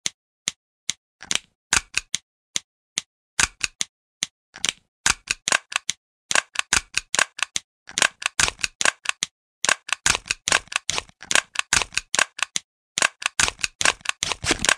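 Typing: sharp clicks of keys, evenly spaced at about two a second at first, then coming in quick irregular runs with short pauses from about three seconds in.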